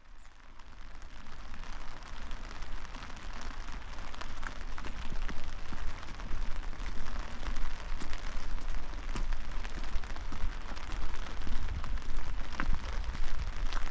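Steady rain falling, with many small drop ticks over a low rumble; it fades in over the first few seconds.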